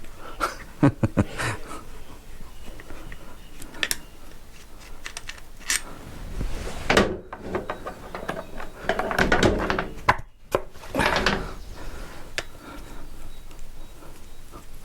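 Workbench handling noise: scattered knocks and clicks of metal engine parts and tools being picked up and set down, with a few longer stretches of scraping and rummaging about halfway through and again later.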